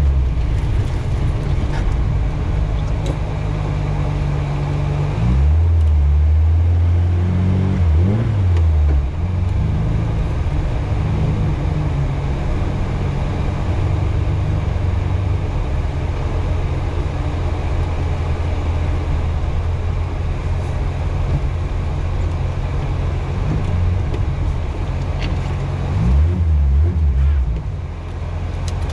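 VAZ 2105 (Lada) rally car's four-cylinder engine running hard on a winter rally stage. The engine note rises and falls with rev changes several times between about five and nine seconds in, and again near the end.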